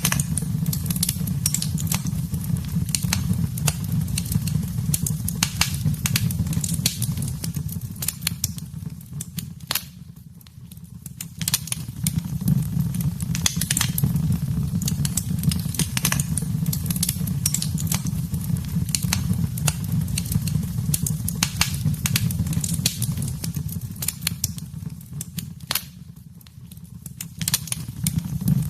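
Fire crackling in a fireplace: a steady low rumble of the flames with frequent irregular sharp crackles and pops. It eases off briefly twice.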